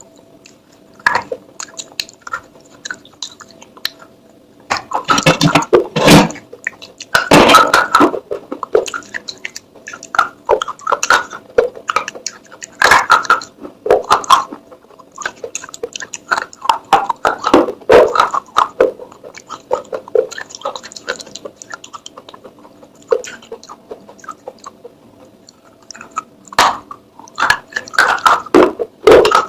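Baked clay pot crumbling and crunching, with irregular dry crackles and crunches, denser in a few loud clusters, over a faint steady hum.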